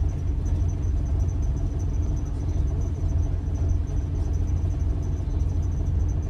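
Scania N94UD Omnidekka double-decker bus under way, heard from inside the passenger deck: a steady low engine and road rumble, with a faint high-pitched pulsing tone above it.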